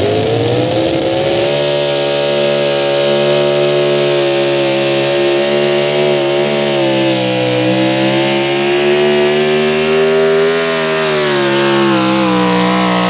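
Pro Stock four-wheel-drive pulling truck's engine running hard at high revs under load during a pull. It climbs in pitch over the first second and a half, holds high with small dips, and starts to ease down near the end.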